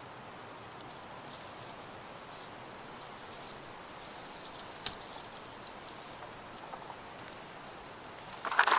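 Quiet outdoor woodland ambience: a steady hiss with a few faint ticks, a sharp click about five seconds in, and a brief louder rustle near the end.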